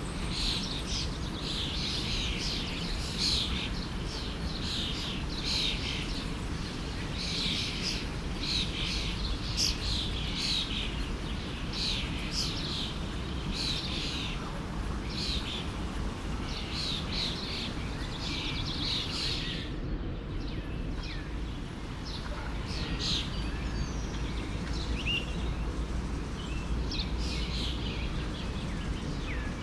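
Birds chirping busily, short high calls coming about once a second, over the steady rush of a forest stream. The chirping thins out about two-thirds of the way through while the stream runs on.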